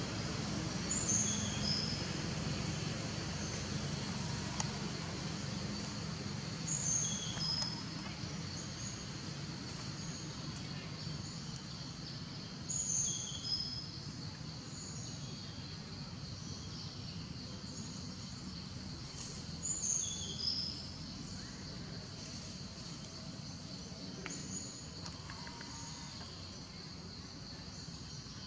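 Outdoor tropical-forest ambience: a bird repeats a short phrase of falling whistled notes about every six seconds over a steady high insect drone, with a low rumble underneath that fades away.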